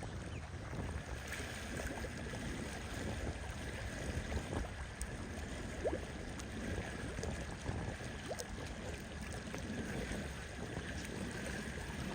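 Wind buffeting the microphone, a steady low rumble that flutters in loudness, over a steady wash of lake water.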